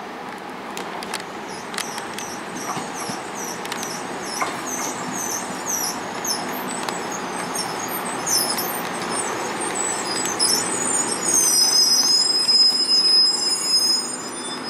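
Korail 311000-series ten-car electric train pulling into the platform and slowing, its wheels rumbling under a string of short high squeals from the running gear. About ten seconds in, as the cars draw alongside, these turn into longer, louder wavering squeals.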